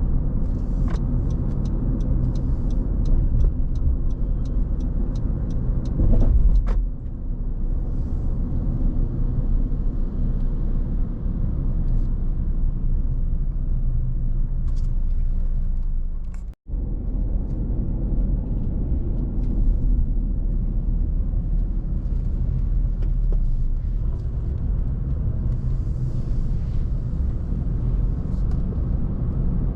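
Car driving along: a steady low rumble of road and engine noise. A run of quick, light ticks sounds in the first few seconds, and the sound cuts out for a split second just past halfway.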